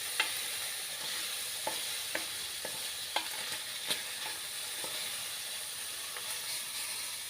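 Bacon frying in a pan: a steady sizzle with scattered sharp pops and crackles.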